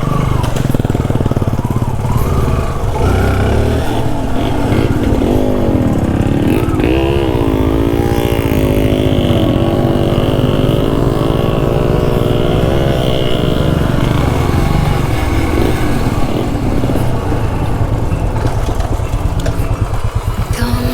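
Yamaha RX two-stroke single-cylinder motorcycle engine running over rough off-road trail. The revs rise and fall repeatedly through the middle of the stretch, over a steady low rumble.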